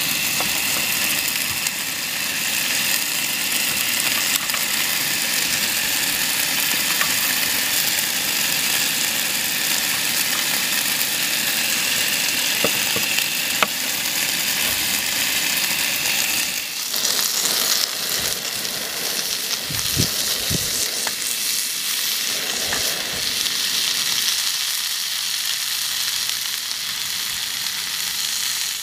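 Chicken, potatoes and onion frying in a pan on a portable butane gas stove: a steady sizzle, with a few light clicks and soft knocks along the way.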